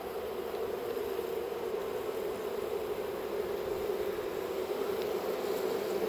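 A swarm of honey bees buzzing: a steady, unbroken hum of many wings that grows slightly louder toward the end.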